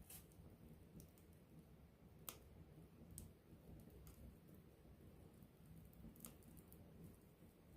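Wood campfire burning quietly with a low rumble, a handful of scattered sharp crackles and pops, the loudest a little over two seconds in.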